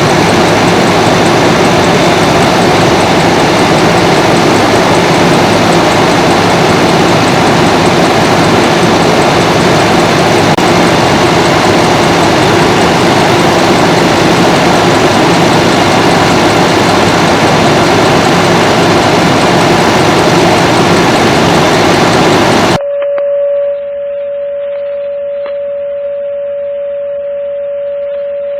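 Loud, steady vehicle engine noise that cuts off abruptly about 23 seconds in. A steady single-pitched radio alert tone follows, the dispatch tone that comes before a fire alarm assignment is read.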